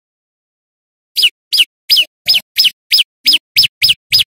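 Prenjak lumut calling: about a second in, a fast run of loud, sharp notes starts, each sliding down in pitch, about three a second and quickening slightly.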